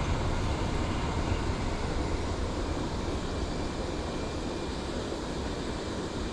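Steady rushing noise with a strong low rumble, easing off slightly toward the end.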